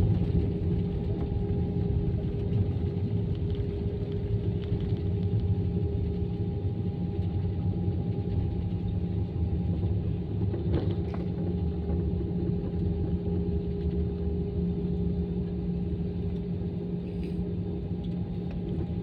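Steady low rumble of an Airbus A320-214 heard from inside the cabin, its CFM56 engines and airframe running with a constant hum on top, as the jet taxis after landing.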